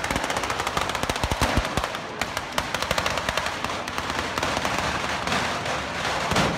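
Fireworks on the ceremonial cart going off in rapid succession: a loud, staccato run of sharp bangs, several a second, with an extra-loud crack near the end.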